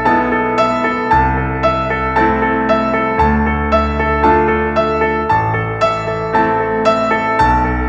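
Slow, gentle piano music with regularly repeating notes, about three or four a second, over held bass notes that change every couple of seconds.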